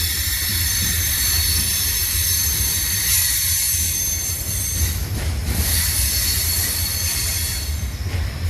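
Freight train cars rolling past close by: a steady low rumble with continuous high-pitched squealing from the wheels.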